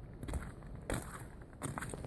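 Footsteps crunching through deep snow, a step about every two-thirds of a second.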